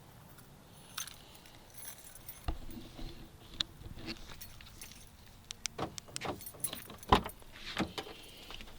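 Handling noises: scattered clicks, light rattles and knocks, sparse at first and coming thicker in the second half, with the loudest knock about seven seconds in.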